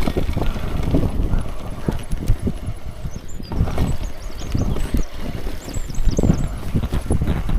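Mountain bike rattling and knocking over a rough, rocky descent, with irregular clatters of the wheels and frame over stones and wind rumbling on the microphone.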